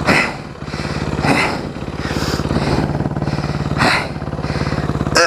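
Yamaha WR400F dirt bike's single-cylinder four-stroke engine running steadily, with about five short louder surges a second or so apart.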